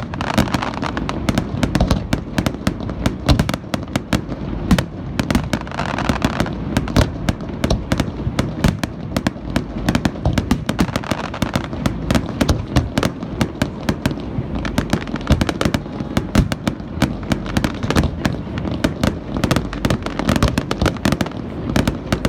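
Fireworks display in a continuous barrage: many sharp bangs and cracks in rapid succession, over a constant low rumble.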